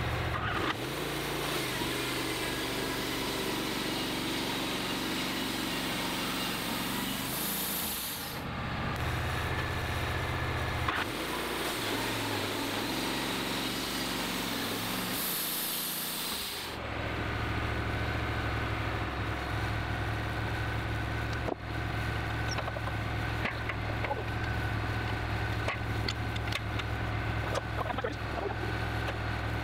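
Wood-Mizer LT15 portable band sawmill running on its Kohler engine, with the band blade sawing through a log. The engine note shifts about a third of the way in and again about halfway, then settles into a steady low drone.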